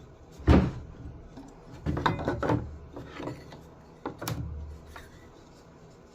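Wooden knocks and clunks of boards or a jig being handled and set down: one sharp knock about half a second in, a run of knocks around two seconds, and another knock near four seconds.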